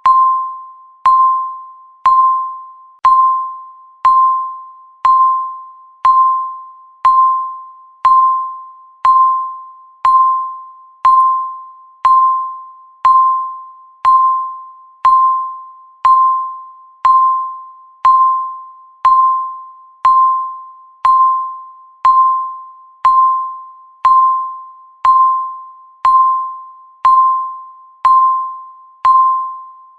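Countdown timer beep: one electronic tone, about 1 kHz, struck once a second with a sharp start and a quick fade.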